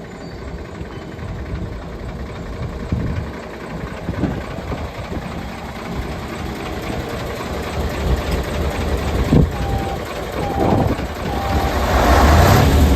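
Mitsubishi 8DC11 V8 diesel engine of a 1995 Mitsubishi Fuso Great dump truck running, with a few short swells and growing louder near the end. A reversing beeper starts about ten seconds in, beeping about once a second.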